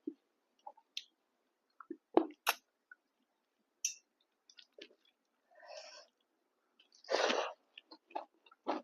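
Close-up chewing of a person eating pork fry with rice and dal: scattered wet mouth clicks and smacks, with a short noisy breath about five and a half seconds in and a louder, longer one about seven seconds in.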